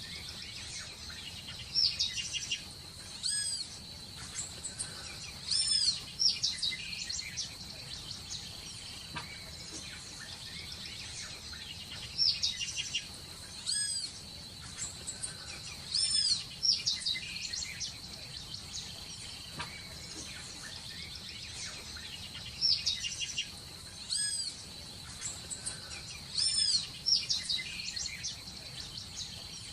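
Birds chirping in bright, quick clusters of short calls that come in bursts about every ten seconds, over a steady high-pitched whine.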